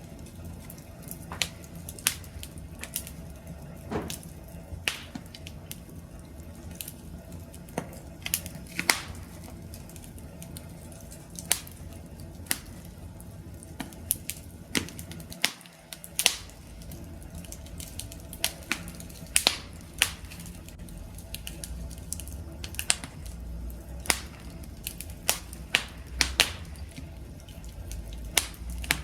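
Wood campfire crackling: irregular sharp pops and snaps over a steady low rumble of burning, which drops out for a moment about halfway through.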